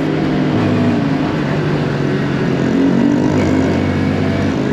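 Honda Grom mini bike's single-cylinder engine running under way at speed, its pitch shifting up and down a few times with the throttle.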